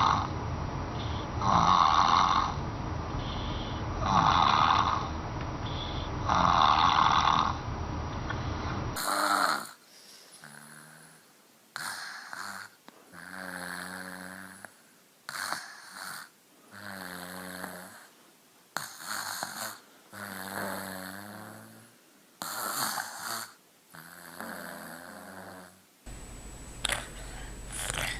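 Snoring: rhythmic snores about every two seconds, then after a cut a run of lower, pitched snore-like sounds about a second long each, with short pauses between.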